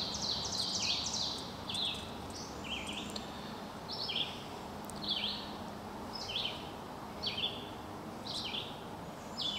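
A bird calling over and over, a short chirp that slides downward, repeated about once a second.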